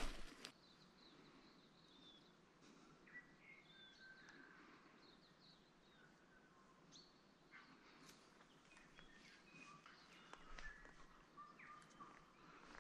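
Near-silent bush with faint, scattered bird calls: short chirps and whistles. A brief knock right at the start.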